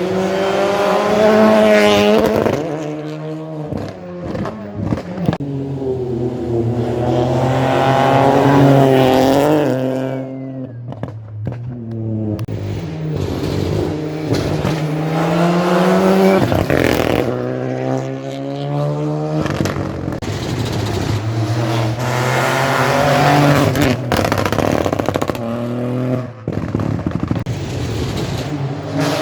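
Rally cars driven flat out on a closed stage, one after another. Their engines rev up and drop back through gear changes as each car passes, with sharp breaks in between.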